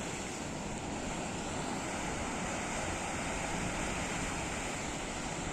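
Steady sea ambience: a calm sea washing gently against the shore, with wind buffeting the microphone.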